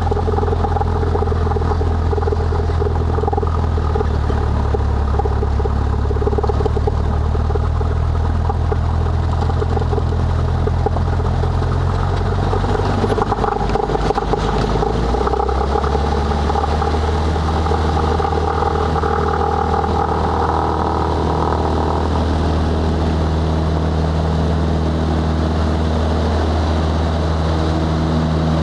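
Cessna 182's single piston engine and propeller running steadily at high power during takeoff. About halfway through, the engine note wavers and then settles at a new pitch.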